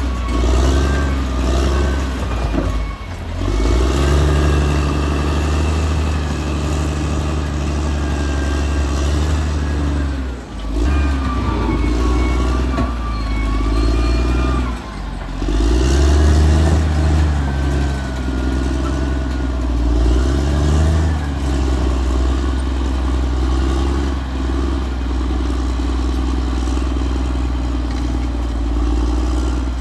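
Caterpillar D6R XL bulldozer's diesel engine running steadily as the machine works, its pitch rising and falling with the load. The engine note drops off briefly about three, ten and fifteen seconds in, then picks up again.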